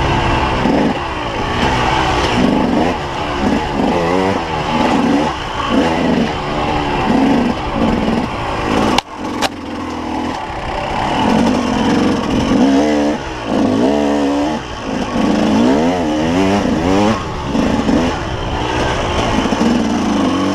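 Enduro motorcycle engine heard from on the bike, revving up and down again and again as the throttle is worked over rough trail. A sharp click and a brief drop about nine seconds in.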